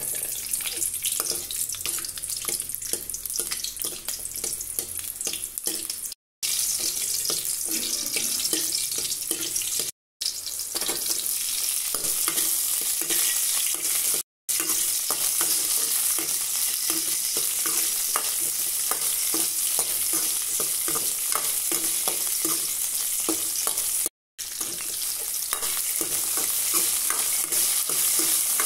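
Small onions and drumstick pieces sizzling in hot oil in a kadai, with a steel ladle stirring and scraping against the pan in frequent small clicks. The sound cuts out briefly four times.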